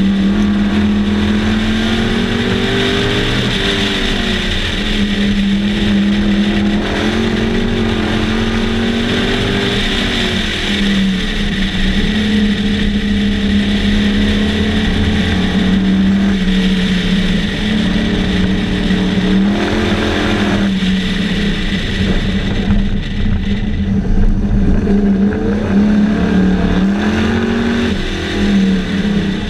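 Sunbeam Tiger race car's Ford small-block V8 running hard, heard from the cockpit. The engine note dips and climbs back several times as the throttle is lifted and reapplied.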